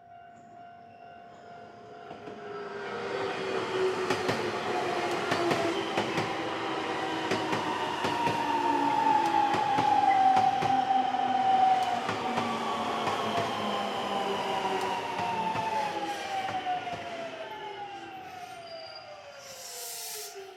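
A Nankai Main Line electric train passing a railroad crossing: wheels clicking over rail joints and a motor whine that slides down in pitch, loudest about halfway through and falling away steeply near the end. The crossing's warning bell rings steadily at the start and again as the train fades.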